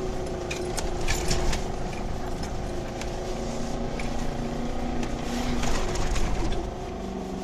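4x4 engine running as it drives over soft sand dunes, heard from inside the cab, its note shifting with throttle, with scattered small clicks and knocks.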